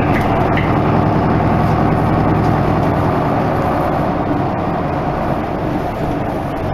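Isuzu Erga Mio medium-size diesel bus running. A steady engine hum with road noise, easing off a little about four seconds in.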